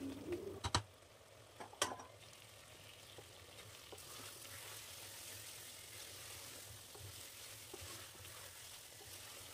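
Chicken pieces in a thick spice paste sizzling faintly in an aluminium pressure cooker as the masala is sautéed (kosha), stirred with a wooden spatula. There are two sharp knocks in the first two seconds.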